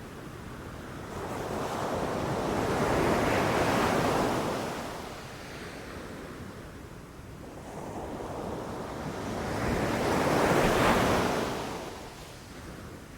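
Ocean waves breaking on a beach, two waves swelling and washing in about seven seconds apart, with wind.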